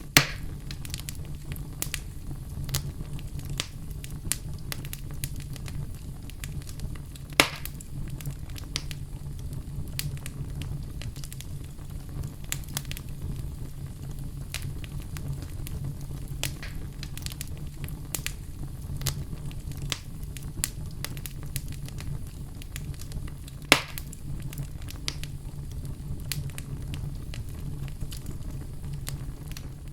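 Campfire crackling over a steady low rumble, with many small snaps and three louder pops: one right at the start, one about a quarter of the way in, and one about three-quarters through.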